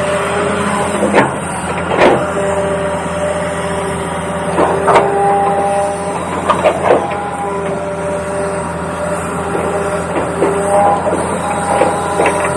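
Small electric gear motors of a radio-controlled toy excavator whining at several pitches that change as the motors start, stop and shift, with sharp plastic clicks and clacks scattered through, a cluster of them about halfway.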